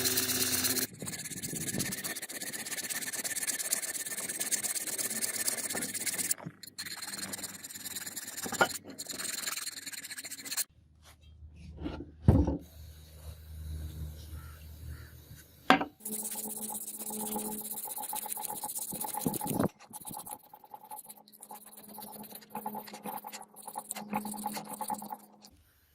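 Filing and rubbing strokes in several short takes, each cut off abruptly by the next, with two sharp knocks in the middle.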